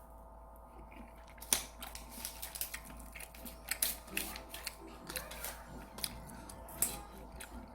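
Irregular sharp clicks and light rustling of plastic takeout containers and utensils being handled during a meal, over a faint steady hum.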